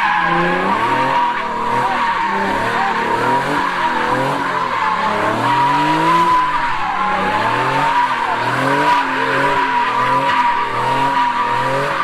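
A car spinning its tires, with a steady high tire squeal throughout over an engine revving up and down again and again.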